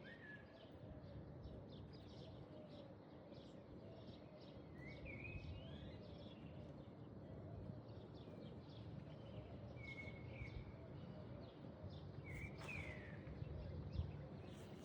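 Faint outdoor ambience over a steady low background noise, with short bird chirps three times, a few seconds apart.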